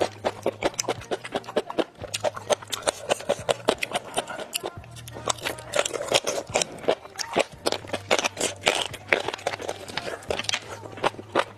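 Close-miked eating sounds: rapid, irregular crunching and chewing, with music underneath.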